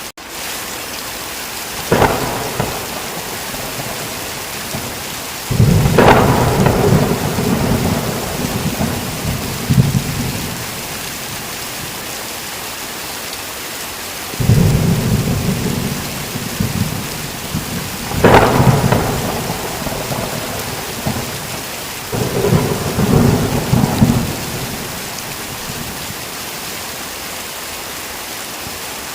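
Steady heavy rain with thunder. A sharp thunderclap comes about two seconds in, followed by several long rolls of thunder, each opening with a crack, through the middle of the stretch. The last roll dies away well before the end, leaving only the rain.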